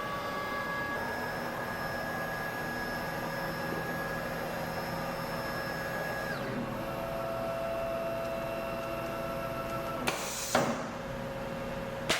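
CNC router with an automatic tool changer running: steady motor whines that shift in pitch a few times, then two sharp clacks about ten seconds in and another near the end.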